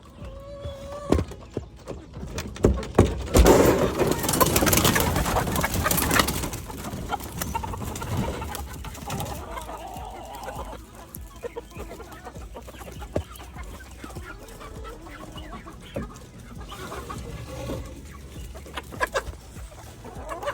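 Chickens clucking, with a louder rush of noise and knocks for a few seconds near the start.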